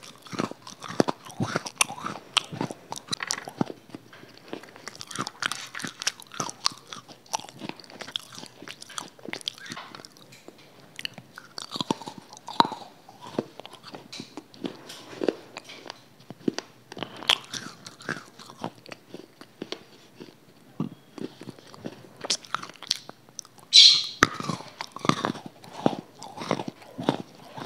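Close-miked crunching and chewing: hard pieces bitten and chewed right at a clip-on microphone, many sharp crunches in irregular succession, with a louder crunch near the end.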